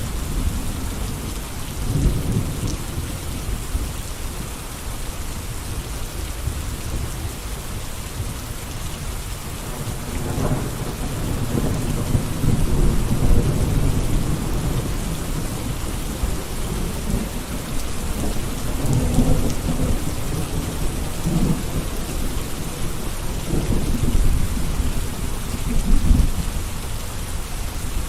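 Steady rain falling, an even hiss of drops on surfaces. Low rumbles swell and fade several times beneath it.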